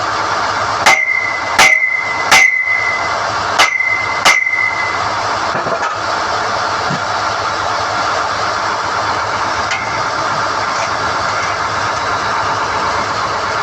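A drilling rig's engine runs steadily while steel drill rods are pulled from the hole. Five sharp metal-on-metal strikes ring out in the first few seconds, each leaving a short bell-like ring.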